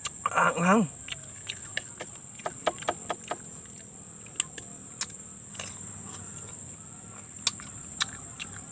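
Close-up mukbang eating sounds of sineguelas (Spanish plum) being bitten and chewed: a string of sharp wet clicks and smacks from the mouth. About half a second in there is a brief wavering pitched sound.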